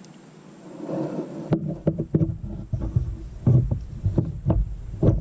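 Irregular dull knocks and thumps of a kayak being bumped and handled close to the microphone, starting about a second and a half in after a soft hiss.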